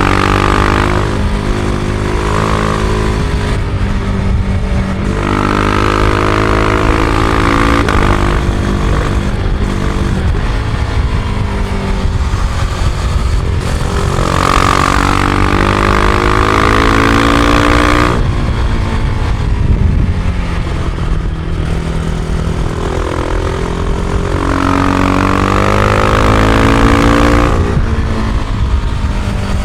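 Husqvarna Vitpilen 701's single-cylinder engine on stock exhaust, pulling hard under way. The revs climb and then drop suddenly, over and over, as it accelerates through the gears, over a steady rush of wind and road noise.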